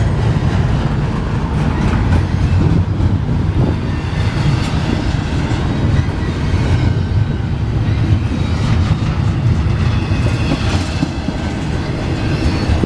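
A long freight train rolling past at steady speed: a continuous rumble of the cars, with the wheels clicking over the rail joints.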